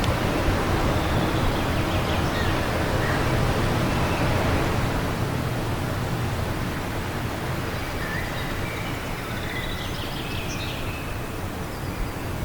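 Wind blowing steadily and easing a little, with faint birdsong chirping through it, a few short calls near the start and more toward the end.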